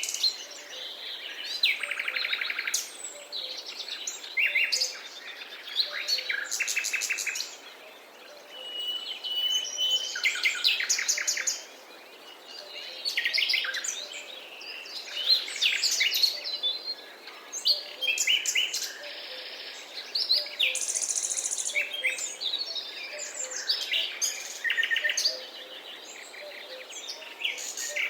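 Forest birdsong: several birds singing and calling over one another in quick chirps, rapid trills and short whistles, over a faint steady background hiss.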